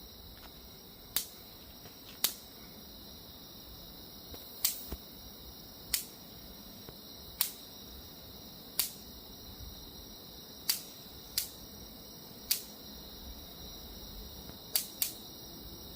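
Electric bug zapper killing mosquitoes: about a dozen sharp electric snaps at irregular intervals, two of them in quick succession near the end, over a steady high-pitched background tone.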